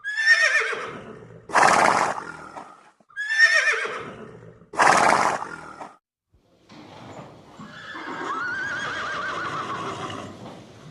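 Horse whinnying: two loud neighs with a shaky, falling pitch, each followed by a short harsh burst. After a brief pause comes a longer, quieter whinny.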